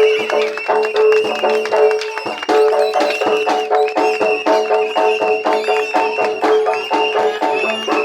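Jaranan gamelan music playing loudly: a reedy, trumpet-like wind melody wavers over repeated gong-chime notes and fast drum strokes.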